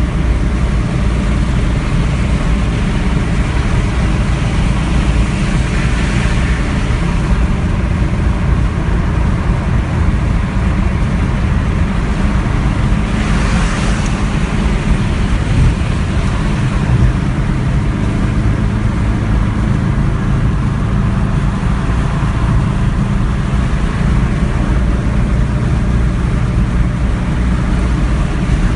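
1974 Porsche 914's air-cooled flat-four engine droning steadily at freeway cruising speed, heard from inside the cabin along with road and wind noise. A brief louder rushing noise comes about halfway through.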